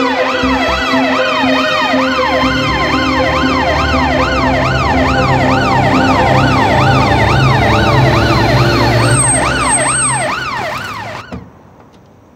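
Several emergency-vehicle sirens wailing together, each rising and falling in pitch about three times a second, over a low steady hum; they cut off suddenly near the end.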